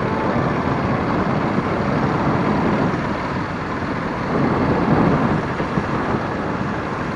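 Yamaha Drag Star 400 Classic's air-cooled V-twin running under way, heard as a dense, steady engine and riding noise, swelling briefly about four and a half seconds in.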